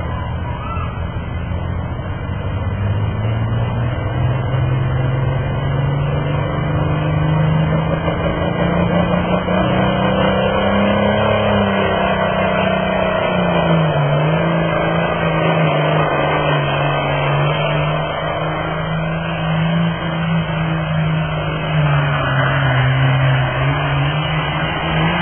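A pulling tractor's engine running hard under load down the track. Its pitch climbs over the first ten seconds, sags briefly a little past the middle, then holds steady.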